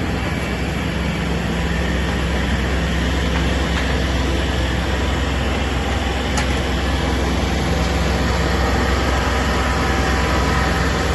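A heavy engine running steadily, with a strong low hum and a few steady tones above it; a single short click about six seconds in.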